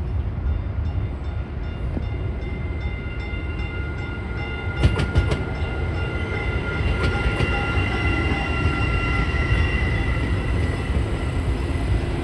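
TEXRail Stadler FLIRT diesel-electric multiple unit moving through the station: a steady low rumble with a constant high whine, and a few sharp wheel clacks about five seconds in.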